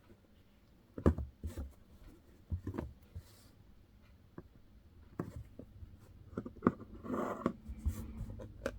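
Hand embroidery: a needle punching through fabric stretched taut in a hoop and thread being drawn through, heard as scattered soft taps and brief rasps, with a short rustle about seven seconds in.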